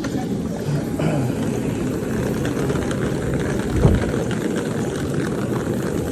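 Aircraft engines running steadily on the apron, heard close by, with a brief low bump about four seconds in.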